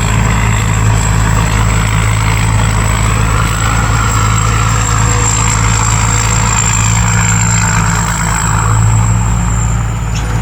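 Rice combine harvester's diesel engine running steadily, with a thin high-pitched whine over the low engine hum.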